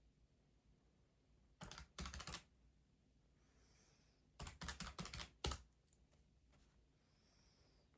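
Keys tapped in two quick bursts of clicks, the first about a second and a half in and the second just before the middle, in an otherwise near-silent room.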